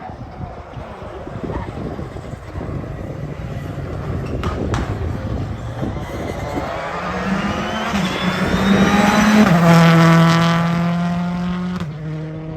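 Rally car at full throttle approaching and passing at speed. The engine grows louder to a peak about ten seconds in, and its pitch drops in two steps as it goes by.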